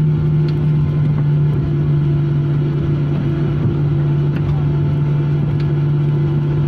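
Steady drone of an airliner heard from inside the cabin, with a constant low hum and a weaker tone above it over a rushing noise, as the plane rolls along after landing.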